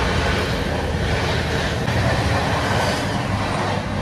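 Passenger train running on the rails with a steady rumble.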